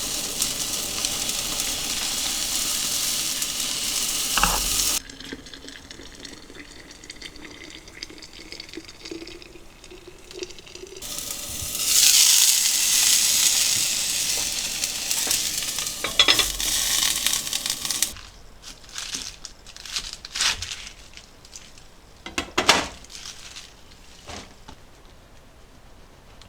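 Food sizzling in a pan over a campfire, in loud stretches that stop and start abruptly, then scattered clicks and knocks of cooking utensils near the end.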